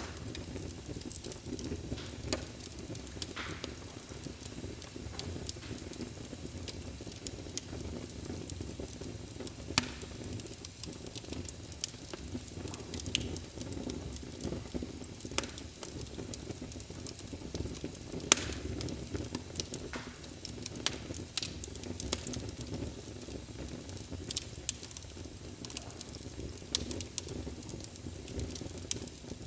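Wood fire burning in a fireplace: a steady low rumble of flames with irregular sharp crackles and pops, one louder pop a little past halfway.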